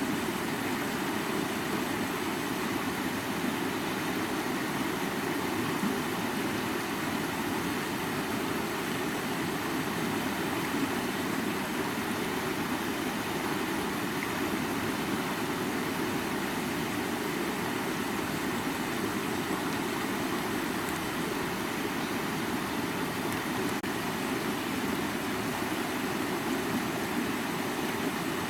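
River water flowing and rushing, a steady even noise that holds without change.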